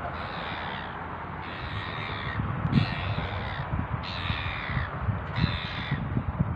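A bird calls five times at even intervals. Each call is drawn out, just under a second long, and falls slightly in pitch.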